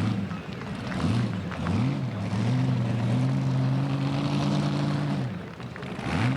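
Competition pulling-tractor engine revving in short blips that rise and fall, then held at steady high revs for about three seconds before dropping off near the end.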